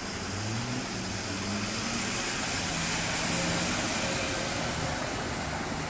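A steady rushing engine noise, with a faint high whine, that swells to a peak a little past the middle and then fades, like something passing by.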